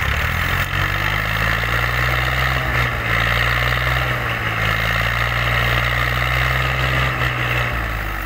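Massey Ferguson 240 tractor's diesel engine running steadily and loud, easing off near the end.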